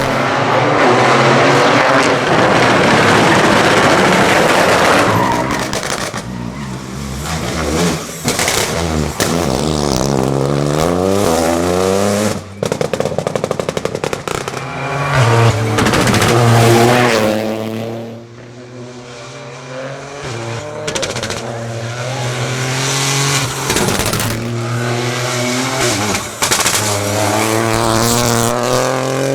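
Lancia Ypsilon Rally4 HF rally car engine revving hard, its pitch climbing and dropping again and again through the gear changes, with sharp cracks between the climbs and some tyre squeal. It is quieter for a few seconds a little past the middle.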